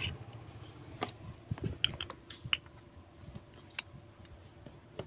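Slime being handled by hand: irregular small sharp clicks and pops, a few at a time, over a faint steady hum.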